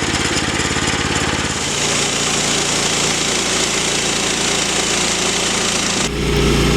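A small gasoline engine running steadily with an even, rapid pulsing beat. The sound changes abruptly about two seconds in and again near the end.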